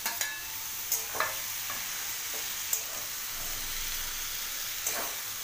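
Vegetables sizzling and frying in a metal wok while a spatula stirs them, with a few scattered scraping knocks of the spatula against the pan.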